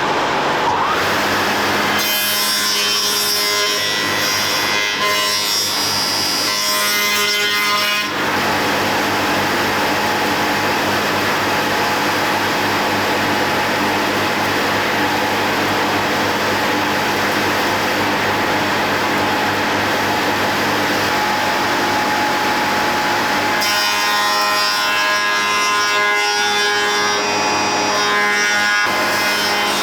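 A power tool running steadily as it works wood, with a change in its sound for a few seconds near the start and again near the end.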